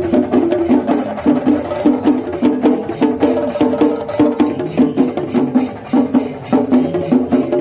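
Kerala temple percussion ensemble playing a fast, dense rhythm of sharp stick strokes on chenda drums, with a pitched melody line running over the drumming.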